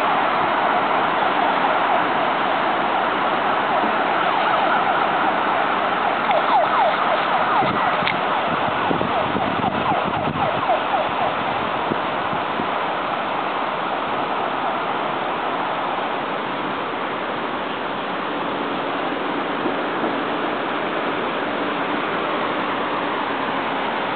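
Steady city traffic noise, with a siren rising and falling in the middle.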